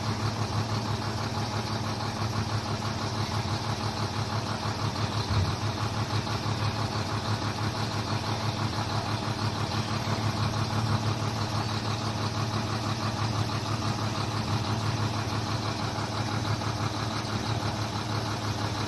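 Sinotruk HOWO dump truck's diesel engine idling with a steady, even throb, with one brief low knock about five seconds in.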